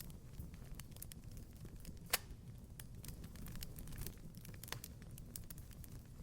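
Fireplace fire crackling: scattered small pops and clicks over a low, steady rumble of the flames, with one sharp, louder pop about two seconds in.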